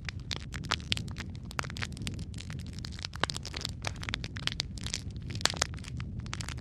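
Wood fire crackling: irregular sharp pops and snaps from burning logs over a steady low rumble of flame.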